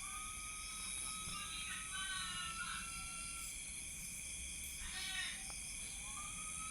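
Steady high-pitched chirring of night insects, with a faint wavering tone over the first couple of seconds and a brief faint voice about five seconds in.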